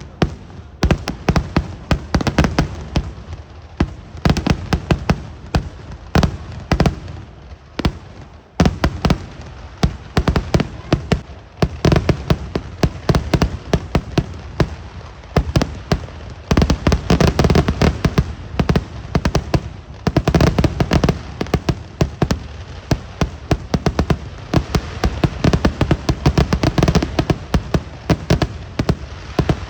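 Vedikkettu fireworks going off in a dense barrage of sharp bangs, many a second, with a brief lull about eight seconds in. From about halfway the bangs thicken into an almost unbroken rattle.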